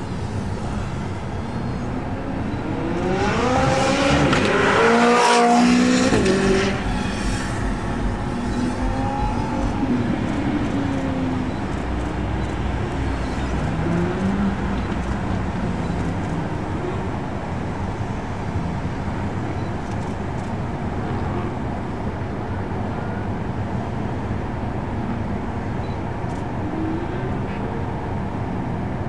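Sports car engines on a race circuit. One engine revs hard about three to six seconds in, its pitch climbing and then falling away, and this is the loudest moment. After that, a steady engine drone comes from cars running in a line, with a few smaller revs.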